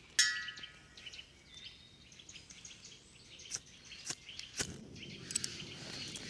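Outdoor forest ambience with birds chirping, a ringing clink just after the start and a few sharp knocks later on.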